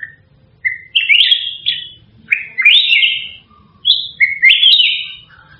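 A bird chirping: short rising notes bunched in three quick bursts, with a few softer single chirps at the start and near the end.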